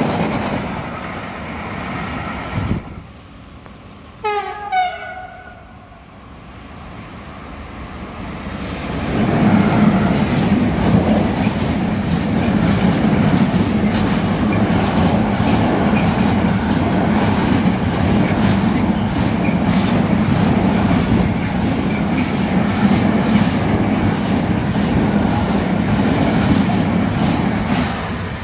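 The tail of a freight train of covered boxcars rolls past, then after a short lull a train horn sounds two short blasts. From about nine seconds in, a long intermodal container train hauled by a Siemens Vectron electric locomotive passes close by: a steady rumble with wheels clattering over the rails.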